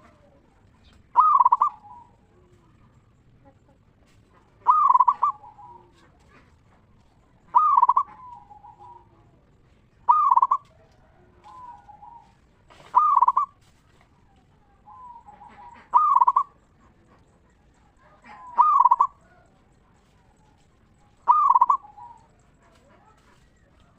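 A local zebra dove (perkutut) cooing its song again and again: eight loud, clear phrases, about one every three seconds. Each phrase ends in softer trailing notes.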